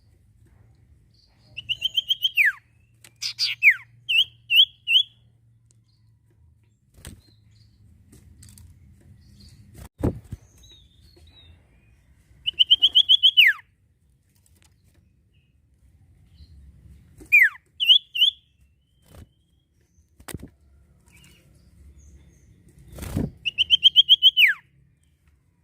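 Common iora (cipoh) singing: three times, a fast rattling run of high notes sliding into a long falling whistle, with short chirps between the phrases and a few sharp knocks.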